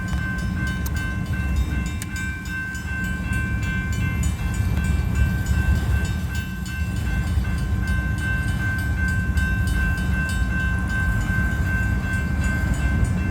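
Freight cars rolling slowly past, their wheels rumbling and clanking on the rails, while the grade-crossing warning bell rings on steadily.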